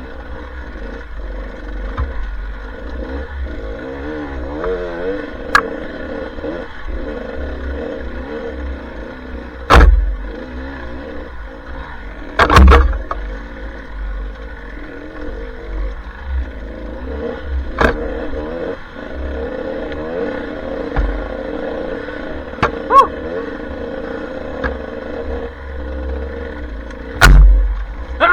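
Dirt bike engine running while it is ridden, its pitch wavering up and down with the throttle, over a steady low rumble. A few sharp, loud knocks come through: about ten seconds in, again at twelve, and near the end.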